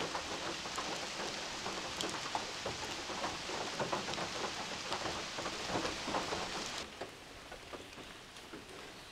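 Heavy rain drumming on a tin shelter roof: a dense hiss made of countless small drop impacts. About seven seconds in it falls away abruptly to a much fainter patter.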